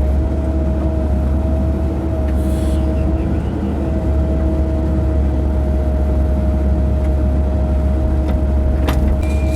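John Deere 544L wheel loader's diesel engine running steadily, heard from inside the cab, as a heavy low drone with a steady whine over it. There is a brief hiss about two and a half seconds in and a sharp click near the end.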